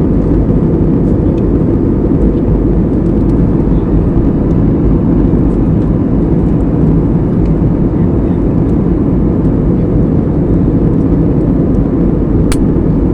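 Steady low rumble of an airplane, with a single sharp click near the end.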